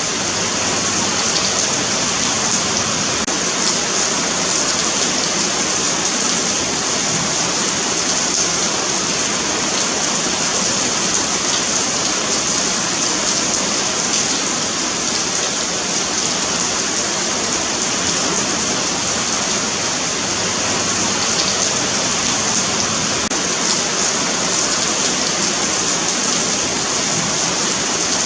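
Steady rain falling on a paved sidewalk: an even, unbroken hiss of many drops.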